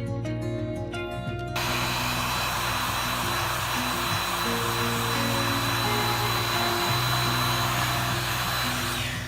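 A small electric blower motor runs steadily with a high whine. It switches on about a second and a half in and cuts off just before the end, over background guitar music.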